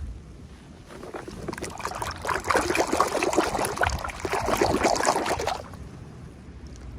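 Packaging being handled and crinkled during an unboxing: a dense crackling rustle. It builds about a second in and stops abruptly a little over halfway through.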